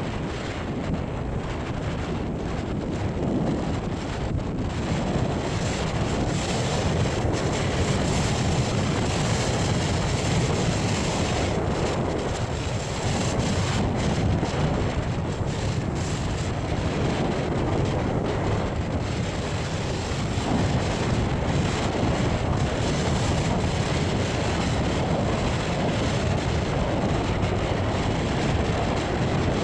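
Storm wind blasting the microphone over the rush of rough sea surf: a steady, unbroken roar, heaviest in the low end.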